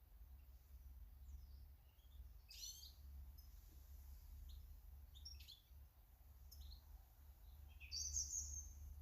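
Small garden birds chirping faintly, with scattered short calls and a louder call about eight seconds in, over a steady low hum.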